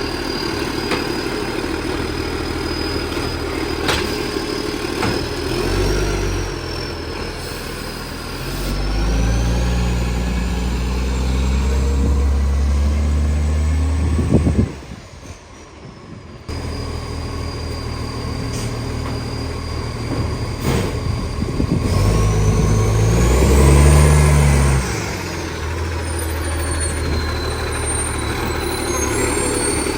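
Garbage truck's diesel engine with a large exhaust leak, idling and revving up twice. A high whine rises and falls with the revs. The sound drops out briefly about halfway through.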